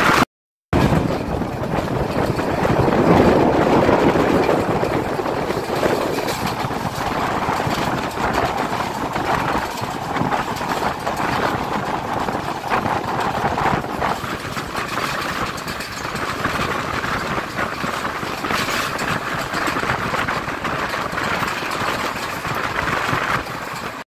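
Passenger train running at speed, heard from an open coach window: a steady rumble of the wheels on the track mixed with rushing air, with a brief break in the sound just after the start.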